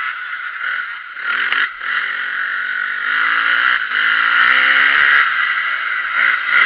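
Motocross bike engine revving and easing off, its pitch rising and falling.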